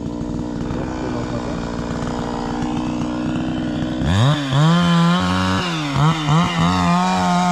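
Two-stroke chainsaw running unloaded at first, then opened up to full throttle about four seconds in. The revs dip and climb back a few times, then hold high.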